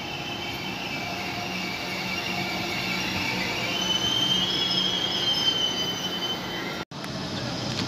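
Deutsche Bahn ICE 4 high-speed train pulling into the platform, rolling rumble with high-pitched wheel and brake squeal growing louder as the coaches pass. The sound breaks off for an instant near the end.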